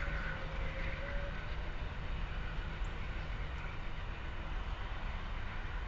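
Train on the tracks: a steady low rumble with rail noise, and a thin steady whine that stops a little over a second in.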